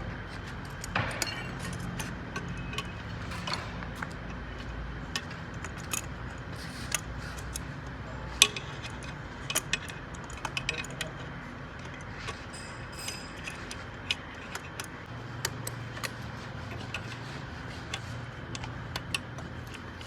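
Metal tools and parts clinking and tapping at an uneven pace over a low steady hum, as the hydraulic lift cylinder assembly is worked on by hand. The sharpest knock comes a little before the middle.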